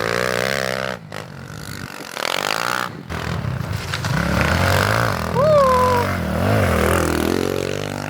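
Pit bike engine revving up and down as it is ridden, the pitch rising and falling with the throttle and dropping off briefly about one and three seconds in.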